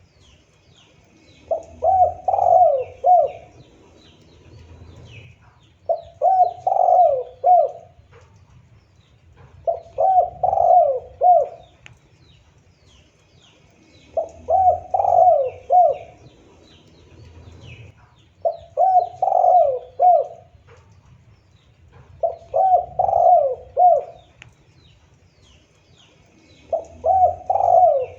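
Spotted dove (tekukur) cooing: a phrase of three or four quick coos, repeated about every four seconds, seven times. Faint chirps of small birds run behind it.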